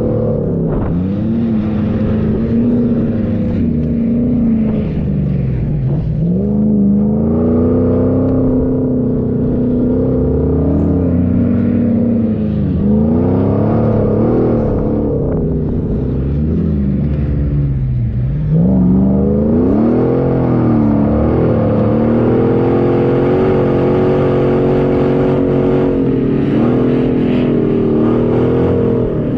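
A 4x4's engine revving up and down over and over under changing throttle, with deep drops in revs about six seconds in and again about eighteen seconds in, each followed by a quick climb.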